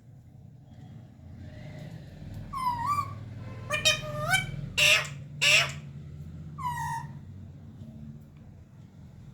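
Pet parrot calling: a couple of squawks with gliding pitch about two and a half seconds in, a run of loud, sharp calls around four to five and a half seconds, and one more call near seven seconds. A steady low hum sits underneath.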